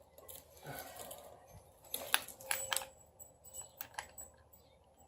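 Several sharp metallic clicks and clinks from bolts and hand tools being handled while a bolt is fitted on the engine, with a cluster of them about two seconds in and another near four seconds.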